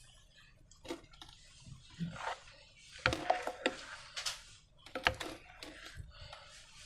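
Slime being squeezed and worked by hand, giving irregular sticky clicks and wet crackles, busiest from about three seconds in.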